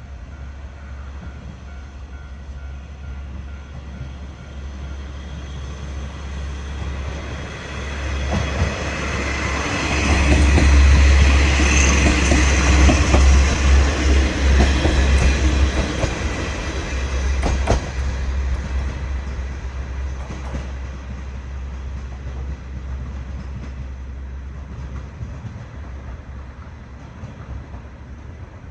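KiHa 40 diesel railcar passing with its diesel engine running: the rumble builds over several seconds, is loudest for about six seconds, then slowly fades. Wheel clicks over the rail joints come through as it passes, with one sharp knock soon after the loudest part.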